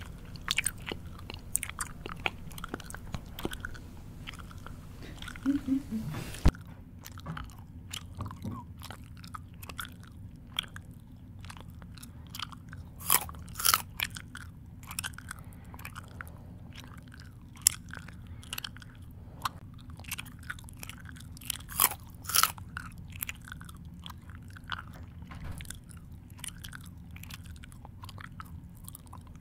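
Close-miked person chewing with the mouth open: irregular wet smacks and crisp crunches, several a second with short pauses between.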